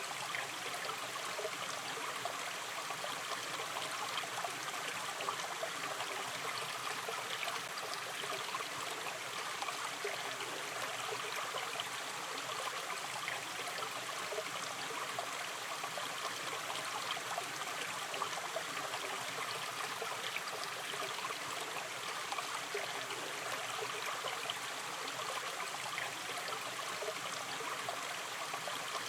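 Gently flowing river stream: water running and babbling steadily over its bed.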